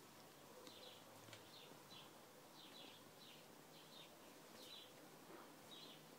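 Faint bird chirping: short, high, slightly falling chirps repeated about twice a second.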